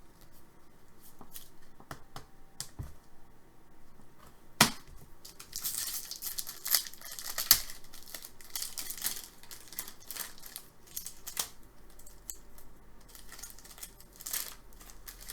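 Trading card pack wrapper tearing and crinkling, with cards being handled: scattered light clicks and rustles, a sharp snap about four and a half seconds in, and a stretch of dense crinkling just after it.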